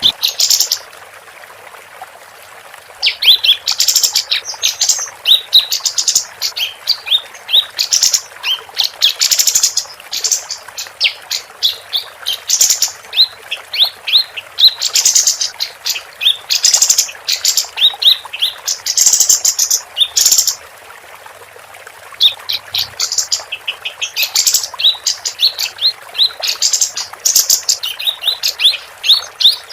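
Female kapas tembak (a bulbul kept as a songbird) singing in long runs of rapid, high chirps and trills, with two short pauses, one near the start and one about two-thirds through, over a steady background hiss.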